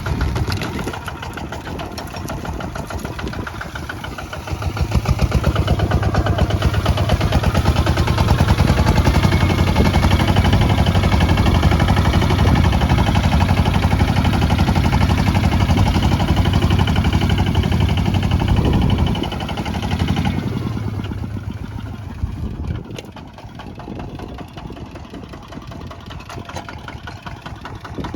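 Kubota ZT155 single-cylinder diesel engine running. It speeds up and gets louder about five seconds in, holds there, then is throttled back with a falling pitch about two-thirds of the way through and settles to a quieter idle.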